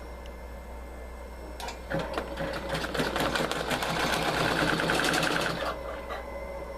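Butterfly embroidery machine stitching: a fast, even mechanical rattle of the needle strokes starts about two seconds in and stops a little before six seconds, over a low steady hum.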